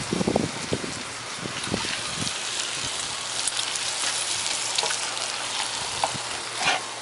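Bacon sizzling and crackling as it fries in a pan, with a few dull knocks in the first couple of seconds.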